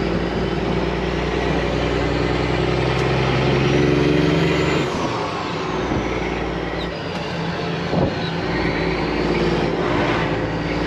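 Semi truck's diesel engine running while driving, heard from inside the cab; the engine note drops and changes about five seconds in.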